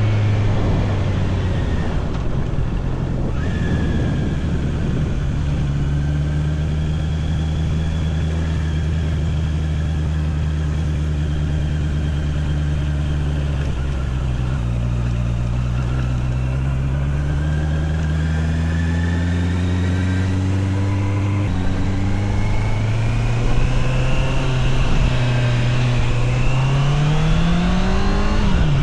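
Honda CBR650R's inline-four engine running under way, with wind noise. The engine pitch holds steady, then climbs gradually as the bike picks up speed, rises quickly near the end, and drops sharply at a gear change.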